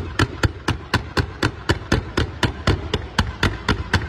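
Fireworks firing a fan of comets from the ground: a rapid, regular series of sharp launch reports, about four a second, each ringing briefly.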